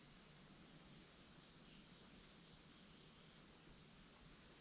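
Near silence: faint insects chirping, a short high chirp about twice a second over a steady high drone.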